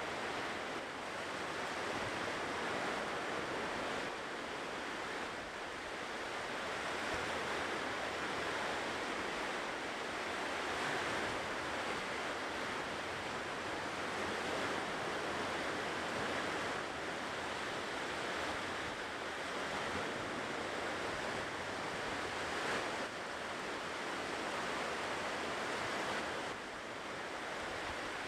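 Ocean surf washing onto the shore in a steady wash of noise that swells and eases gently, without distinct breaking crashes.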